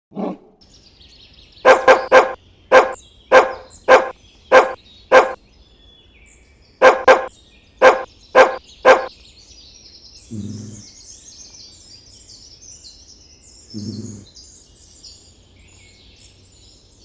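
A dog barking: a single bark, then a quick run of about seven barks at a steady pace and a second run of about five. These are followed by two quieter, deeper sounds, a few seconds apart.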